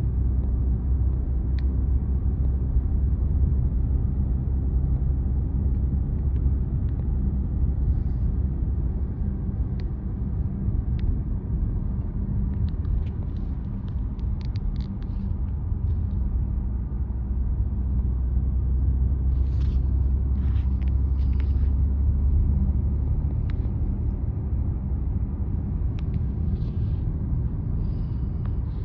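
A car driving along a road: a steady low rumble of tyres and engine, with scattered light ticks and clicks, some in short clusters.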